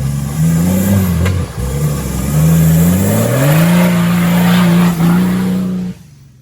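Off-road 4x4 engine revving under load, its pitch wavering, then climbing about three seconds in and held high before dropping away suddenly near the end.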